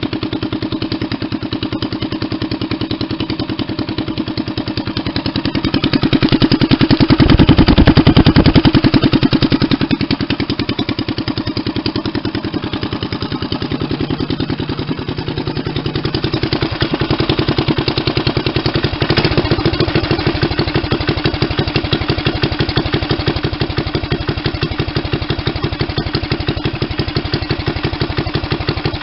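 Small single-cylinder Briggs & Stratton Raptor racing engine on a homemade mini-bike, freshly rebuilt, running with a steady fast putter. It is revved up about six seconds in, settles back to idle, and is blipped up more lightly again about nineteen seconds in.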